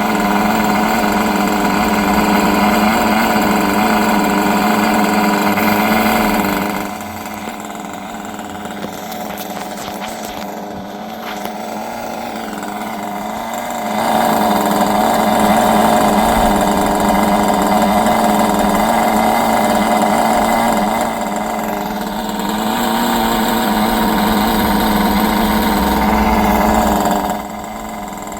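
Kyosho Neo 4.0 nitro RC buggy's small glow engine running steadily, its sound swelling and fading, with quieter stretches about seven seconds in and again near the end.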